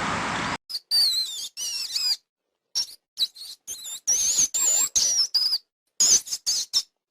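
High-pitched squeaking calls from a small animal: a string of short, wavering squeaks with silent gaps between them, following about half a second of steady noise that cuts off abruptly.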